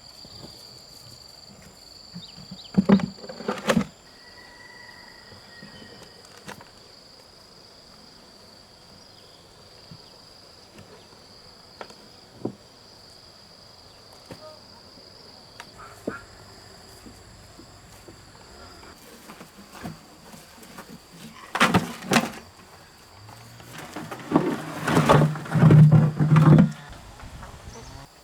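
Insects droning steadily in one high-pitched tone. Loud knocks and clattering break in about three seconds in, again about 22 seconds in, and loudest in a cluster near the end.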